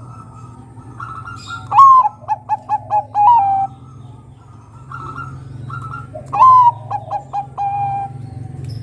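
Zebra dove (Bangkok-type perkutut) singing twice. Each song is a loud opening note followed by a quick run of short notes and a drawn-out final note, with softer coos in between, over a low steady hum.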